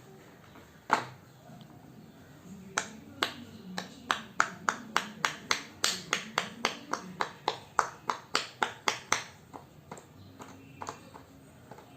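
Heart-shaped silicone pop-it fidget toy being pressed bubble by bubble: one sharp pop about a second in, then a quick run of pops, about four a second, for several seconds.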